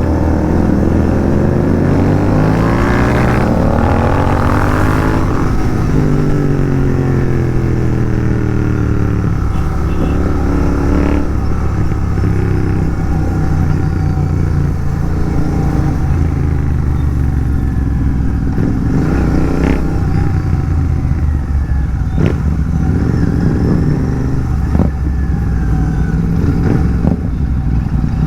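Royal Enfield Continental GT 650's parallel-twin engine through an aftermarket megaphone exhaust, revving up through the gears over the first few seconds. It then settles into a steady cruising note, with a few short sharp clicks in the second half.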